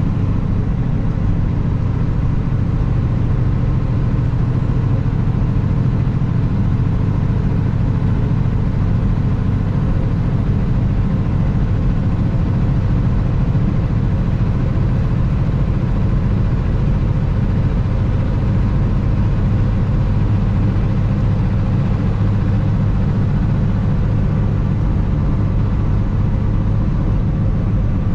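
2021 Kenworth W900 semi truck's diesel engine running steadily as the truck drives, a constant low hum with no change in pace.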